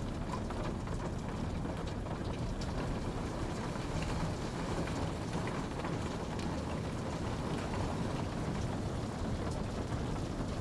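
Steady rain falling, with scattered drops pattering on a surface over an even low rush.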